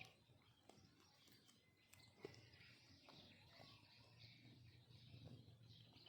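Near silence: faint background hiss and low hum with a few soft clicks.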